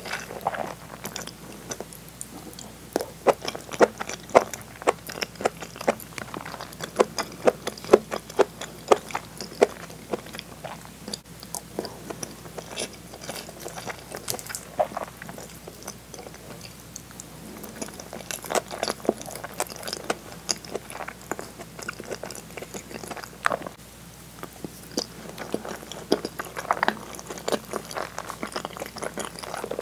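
Close-miked chewing and mouth sounds of a person eating rice and a sauced hamburg steak with potato salad: a string of short, soft, wet clicks and smacks, busiest in the first third and again just past halfway.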